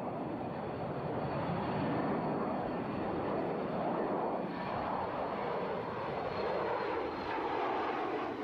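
Boeing 737 jet engines running as the aircraft flies past low, a steady roar with a thin high whine. The pitch drops over the second half as it goes by.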